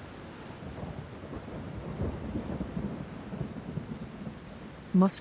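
Rain falling steadily with a low rumble of thunder underneath.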